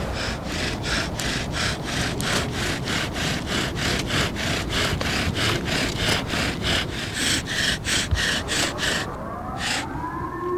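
Bow drill being worked: the bow is stroked quickly back and forth, about three to four strokes a second, and the spindle rasps rhythmically against the wooden fireboard. The strokes stop near the end, and a rising tone comes in and holds steady.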